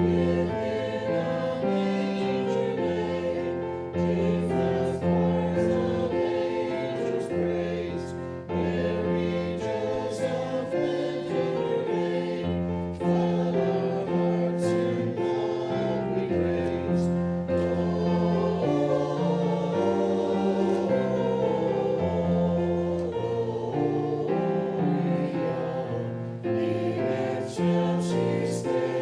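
A choir singing with musical accompaniment: held chords that move from one to the next about once a second.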